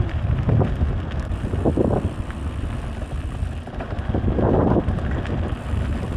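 Wind buffeting the clip-on wireless microphone while riding an electric mountain bike, a steady low rumble with a few brief soft swells.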